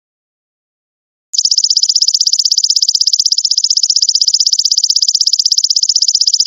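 Golden locust (belalang emas) insect calling: a high, rapidly pulsing buzzing trill that starts after a second and a half of silence and keeps going.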